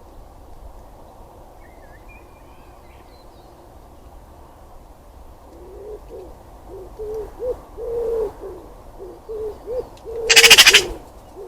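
A pigeon cooing in a run of short, low notes over a steady outdoor background hum, with faint small-bird chirps early on. Near the end comes one loud, harsh, rattling burst.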